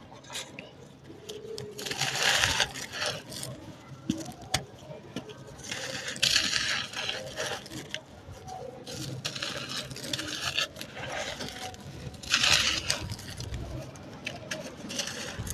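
Dry, stony sand-cement pieces crushed and crumbled by hand with a crunchy, crispy sound. Four crunching bursts of about a second each, with small sharp clicks between them.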